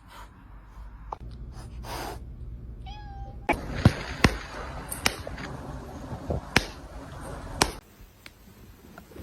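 A domestic cat gives one short meow about three seconds in, followed by several sharp clicks or taps.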